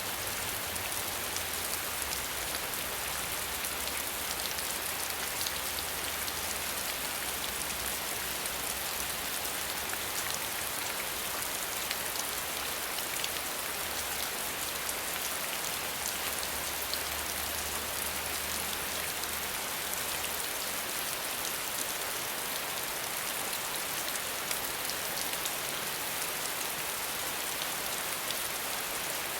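Steady rain with no thunder: a continuous hiss dotted with the fine patter of individual drops.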